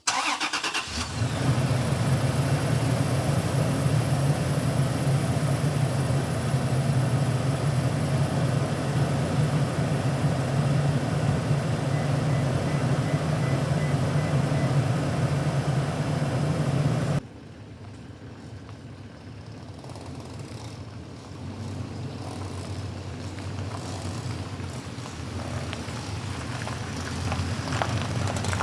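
A truck engine cranks and starts, then runs with a steady low hum. About two-thirds of the way in the sound cuts abruptly to a quieter engine and road noise that gradually grows louder.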